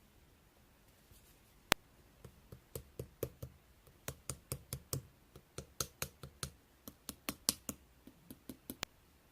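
Hands playing with a slime, making a faint, irregular run of small clicks and pops as it is pressed and stretched, with one sharper click about two seconds in.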